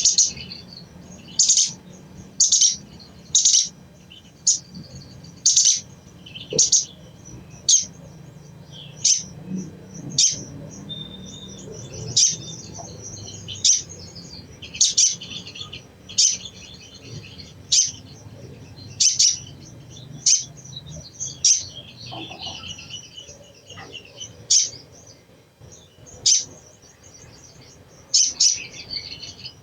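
Sogon (sogok ontong) bird chattering: sharp, high-pitched call notes repeated about once a second, with quicker twittering runs in between.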